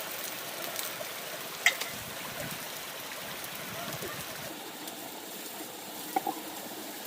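Steady rain falling. There is a sharp click about a second and a half in, and two quick knocks near the end.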